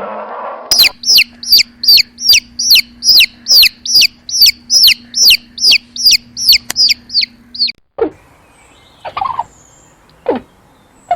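A bird calling in a rapid, even series of high, down-slurred peeps, about two and a half a second, which stop near the two-thirds point. A few lower, falling calls follow at uneven gaps.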